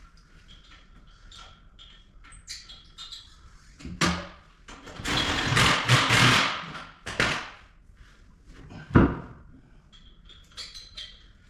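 Work noises in a shop: a knock about four seconds in, then a rushing hiss for a couple of seconds, and a single sharp knock a little later.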